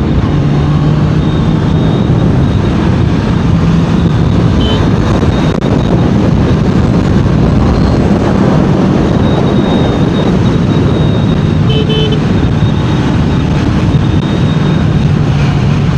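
Honda CBR650R inline-four engine and exhaust running steadily under way, under a constant rush of noise.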